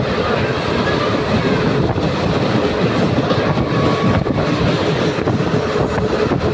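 Passenger train running on a steep uphill ghat gradient, heard from inside a coach: a steady rumble of wheels on the rails, with a thin steady whine and a brief higher squeal about four seconds in.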